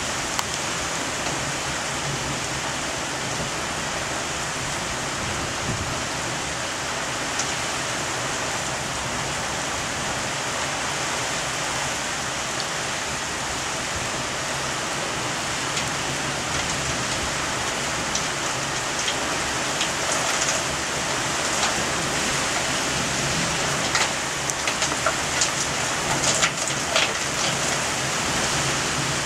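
Heavy thunderstorm rain pouring in a steady hiss, with sharp taps of drops striking a nearby surface that come thicker about three-quarters of the way through.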